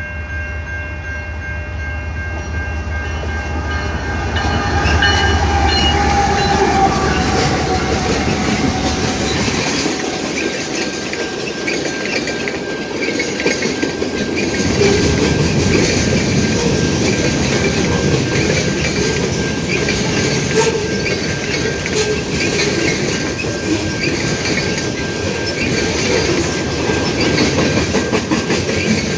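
CN diesel freight locomotive passing, its horn sounding for the first few seconds and falling in pitch as it goes by, over the engine's low rumble. Then a long string of freight cars rolls past with steady wheel clatter and a thin, steady high squeal from the wheels.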